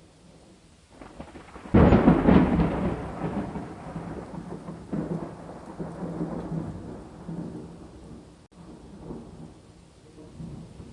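A thunderclap cracks suddenly about two seconds in and rolls away as a rumble over the next several seconds, with rain falling underneath.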